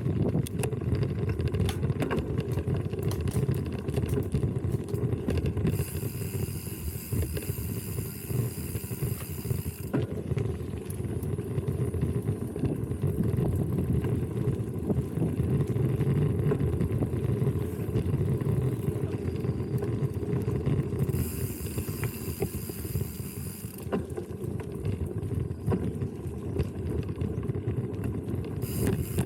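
Riding noise from a mountain bike: a steady low rumble of tyres and wind with frequent small rattles and clicks. A high hiss comes in twice for a few seconds.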